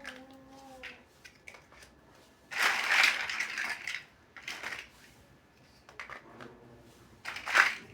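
Plastic building bricks being handled and pressed together: scattered small clicks, a longer rattling rustle about three seconds in, and a short sharp burst near the end.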